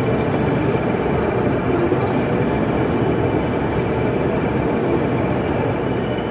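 Steady hubbub of a busy exhibition hall, with a constant high whine and a second, higher whine starting near the end.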